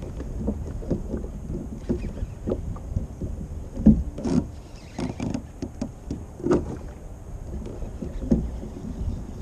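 Water sloshing and slapping against a kayak hull, with irregular knocks and splashes, the loudest about four seconds in and again about six and a half seconds in, over low wind rumble on the microphone.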